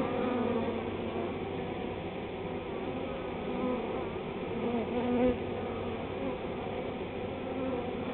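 Honey bee swarm buzzing: many bees in flight around the hive, a steady dense hum of overlapping wavering pitches, with one bee passing louder close by about five seconds in.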